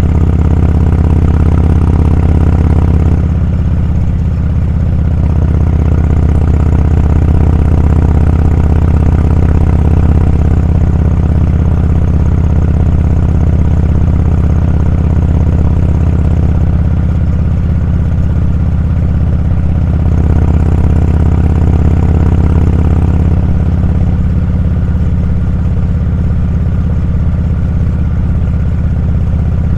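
Motorcycle engine running at a steady pitch, with only small shifts in level.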